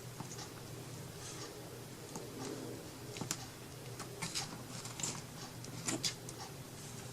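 Faint, scattered light taps and rustles of small craft pieces being handled and pressed into place, a few soft clicks spread through the stretch, over a low steady hum.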